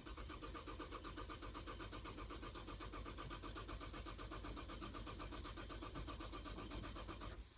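Car engine cranking on the starter motor with an even, rapid chug, but not catching; it stops near the end without firing. The engine won't start because of a failed fuel pump.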